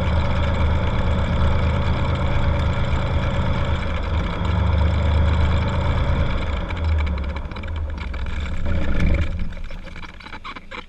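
Cessna 182's piston engine running at idle, then shut down about nine seconds in and quickly winding to a stop, leaving a few clicks.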